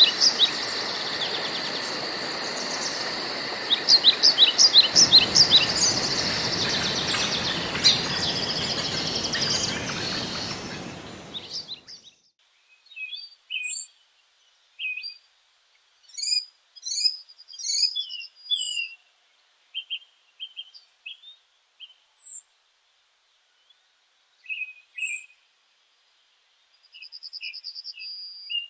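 Woodland birds singing, with quick repeated high notes over a steady background hiss. The hiss fades away about twelve seconds in, leaving scattered short chirps and trills against near silence.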